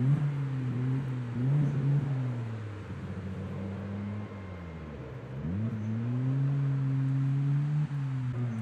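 Rally car's engine revving up and down as the car, stuck in mud off the road, is pushed free by spectators. The revs drop sharply about five seconds in, then climb again and hold high.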